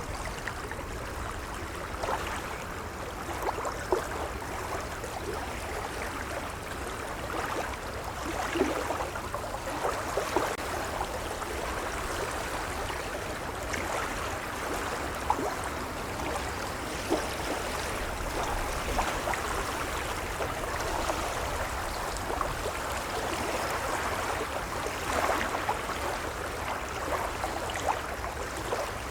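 Gentle waves lapping, a steady wash of water with many small splashes and gurgles over a low rumble.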